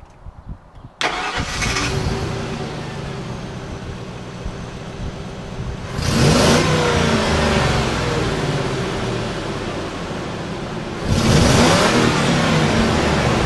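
Newly swapped 4x4 engine starting for the first time: a brief crank, then it catches about a second in and runs. It is revved twice, at about 6 and 11 seconds, through new headers and a 3-inch exhaust.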